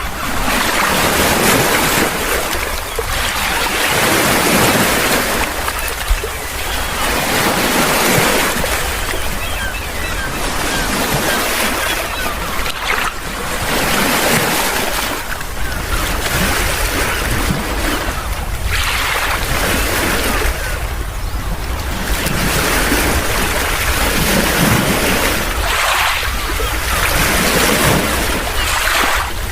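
Sea waves washing on the shore, the surf swelling and fading every few seconds, with wind rumbling on the microphone.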